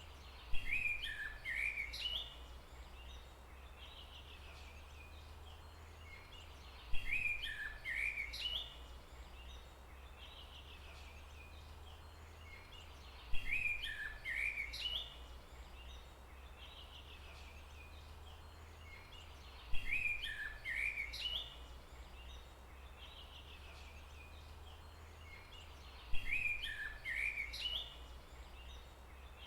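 A bird's short chirping song phrase, repeated five times about every six and a half seconds, over a steady low rumble of background noise.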